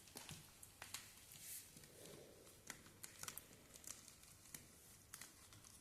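Near silence with faint, scattered clicks and light rustling.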